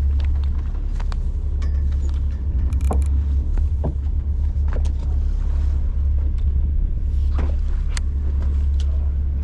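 A party boat's engine rumbling steadily and low, with scattered light clicks and knocks on deck.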